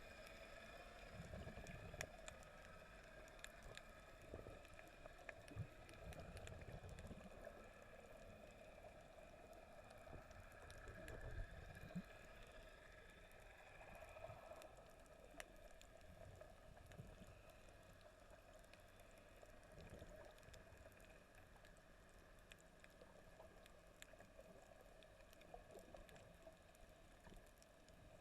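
Faint, muffled underwater sound recorded by a snorkeller's camera: a steady hum with scattered sharp clicks and occasional low thuds of water movement.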